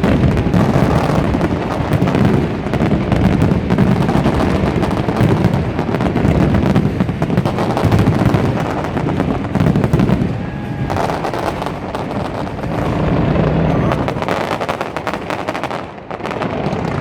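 Fireworks display: a dense, continuous barrage of bangs and crackles, easing off briefly about ten seconds in and again near the end.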